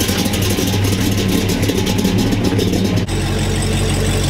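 Engine of an old vehicle running with a rough, fast pulsing exhaust note as it leaves, then, about three seconds in, a sudden change to a steadier engine sound idling.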